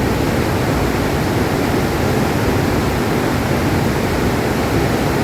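Loud, steady rush of a flooded river in full spate, a constant roar of fast, high water.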